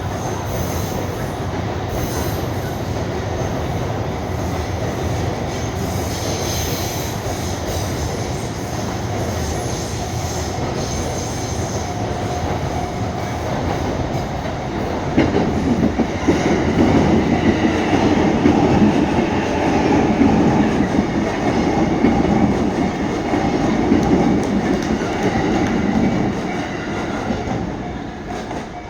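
Electric trains passing in quick succession: a JR Chuo Line E233-series train and an E259-series Narita Express, their wheels running over the rails. The passing noise grows louder about halfway through and dies away near the end.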